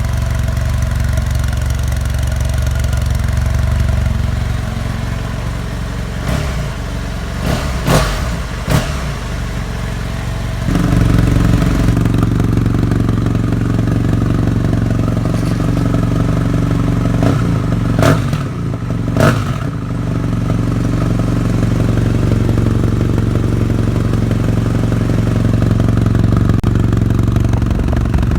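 BMW F800R's parallel-twin engine idling through a Lextek carbon aftermarket exhaust, with short throttle blips about 8 seconds in and again around 18 to 19 seconds. The idle steps up in loudness a little before halfway.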